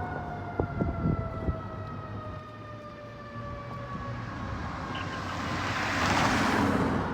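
Fire truck siren wailing, its tone falling slowly in pitch, with a few sharp knocks in the first second or so. A loud rushing noise swells near the end.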